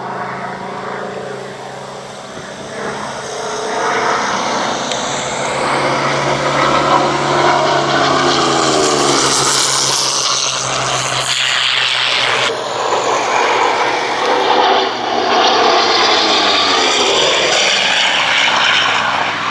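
Propeller-driven aircraft engine in a low fly-past, growing louder about four seconds in, with the engine note dropping in pitch as the aircraft passes.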